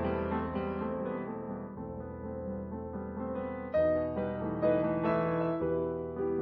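Background piano music playing chords, with new notes struck about four seconds in and again a second later.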